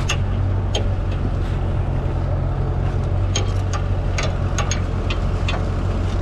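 Vehicle engine idling steadily, with scattered light clicks and clinks over it.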